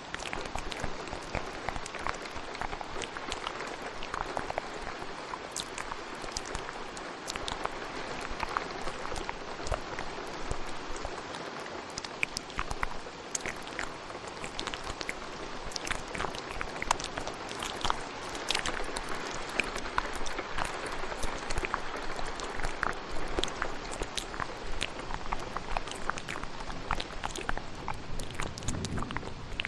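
Steady rain falling, overlaid with a dense layer of wet mouth clicks and smacks.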